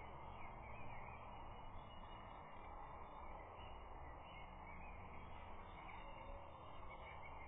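Steady low hiss with faint, distant wild birdsong chirping over it.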